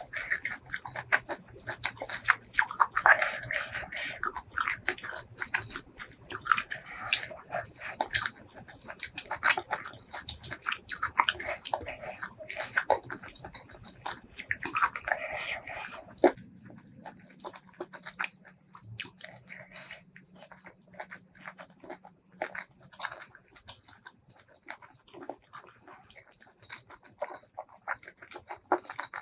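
Close-miked mouth sounds of a person eating seafood: chewing, with wet smacks and mouth clicks. Dense and loud for about the first sixteen seconds, then sparser and softer clicks.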